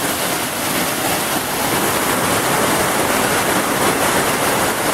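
Waterfall on a creek: a steady rush of falling water.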